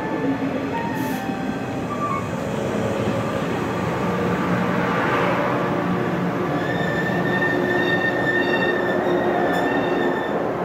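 A local electric passenger train running past, its wheels rumbling on the rails, with high, steady whining and squealing tones above the noise.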